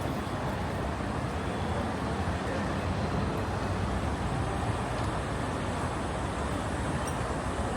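Street traffic noise: a steady hum of passing motor vehicles with no single sound standing out.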